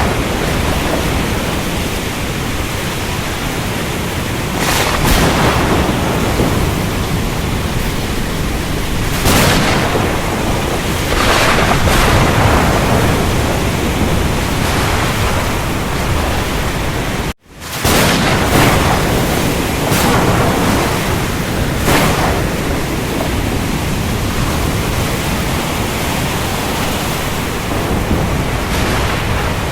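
Storm at sea: a steady rush of rain and surf with several brief louder surges rising and fading. About two-thirds of the way through, the sound cuts out for a split second and then resumes.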